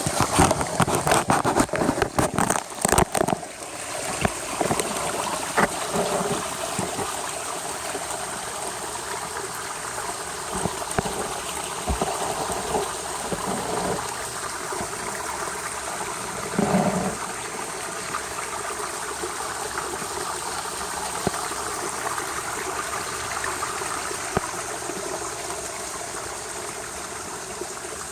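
Backyard pond water trickling and splashing steadily. For the first few seconds there is loud rustling and knocking as the paper envelope holding the camera rubs and bumps, and there is another brief bump later on.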